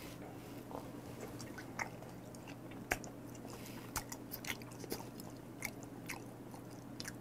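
A person chewing a mouthful of raw beef spinal cord, close to the microphone, with soft wet mouth clicks and smacks scattered through.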